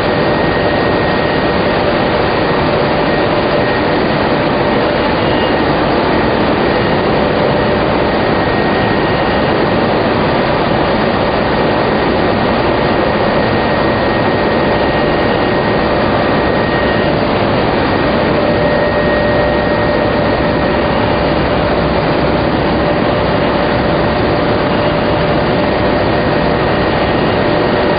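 Industrial machinery of a tobacco lamina flash dryer line running steadily: a loud, even rush of air with a couple of constant whining tones in it.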